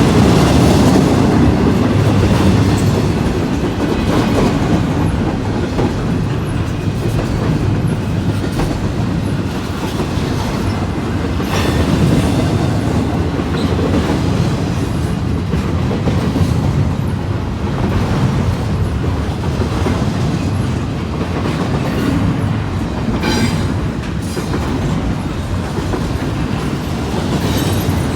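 Intermodal freight train rolling past, steel wheels clacking steadily over rail joints.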